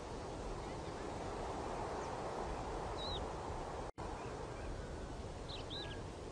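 Steady outdoor background hiss with a few short bird chirps, one about three seconds in and two more near the end. The sound cuts out for a moment near the middle.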